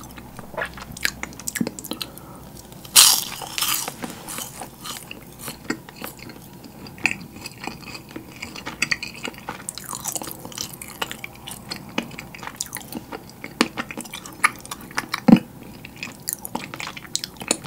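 Close-miked crisp crunching of yugwa, Korean fried glutinous-rice cracker coated in puffed rice, being bitten and chewed. There is a loud crackling bite about three seconds in, then steady crunchy chewing with scattered sharp crackles and another loud crunch near the end.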